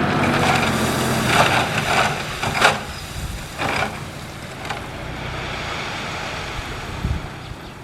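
Heavy construction machine's diesel engine running, with a string of sharp clanks and scrapes in the first half and a low thud near the end.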